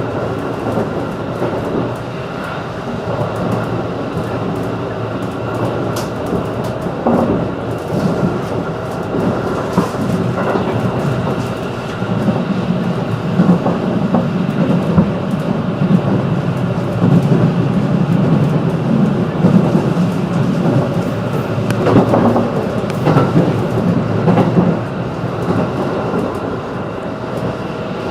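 Running noise heard inside a JR 211 series electric train car: a steady rumble of wheels and motors on the rails, with scattered clicks from rail joints, growing somewhat louder about twelve seconds in.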